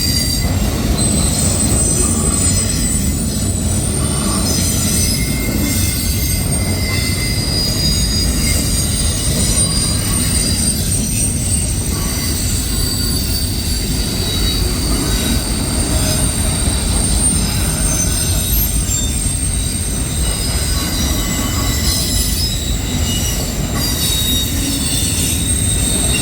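Loaded autorack freight cars rolling past, their steel wheels making a steady low rumble with thin, high-pitched wheel squeal drawn out over it.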